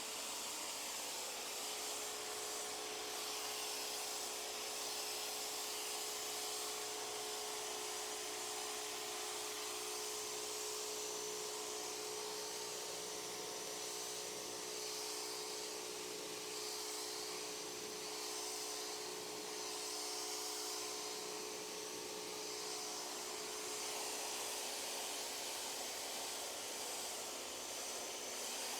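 Pressure washer running continuously with the trigger held, its motor and pump giving a steady whine under the hiss of a 15-degree water jet blasting a dirty patio surface. It starts up about a second before and runs without a break.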